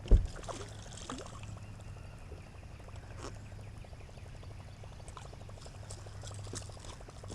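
A heavy thump right at the start, then light water splashing and trickling with scattered small knocks over a low steady hum, as a thrashing striped bass is brought in from the river.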